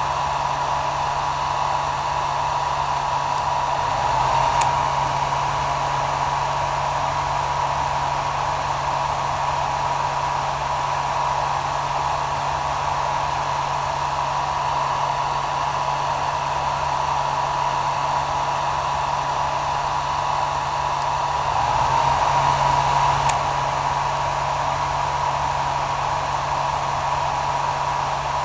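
Hair dryer running steadily: an even airflow hiss with a fixed whine and a low motor hum. It swells slightly twice, each time with a faint tick.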